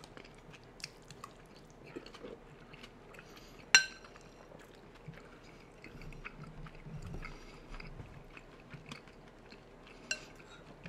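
Close-up chewing of a mouthful of stew, with small wet mouth clicks. A little under four seconds in, a utensil clinks once sharply against a bowl and rings briefly.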